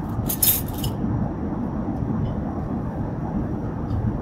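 Steady low rushing drone of an Airbus A350-900 cabin in cruise, with a brief clinking of tableware or glass about half a second in.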